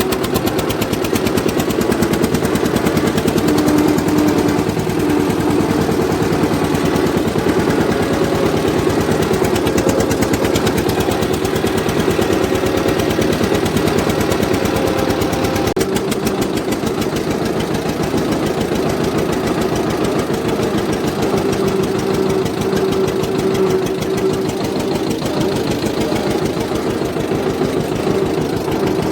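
Eicher tractor's diesel engine running steadily, a fast, even chugging that holds the same pace throughout.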